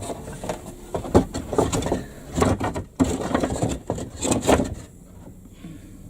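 Irregular wooden knocks, scrapes and clatter as timber beams and a hand saw are shifted and repositioned, with no steady sawing rhythm; it goes quieter about five seconds in.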